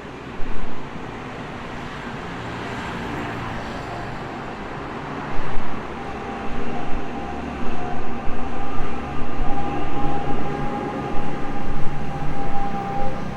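A train passing close by: a rumble that builds, then rapid rhythmic clatter of wheels over rail joints from about five seconds in, with a steady whine.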